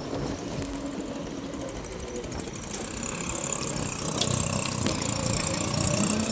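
Vehicle engine running on the move, with steady road noise, getting somewhat louder about halfway through.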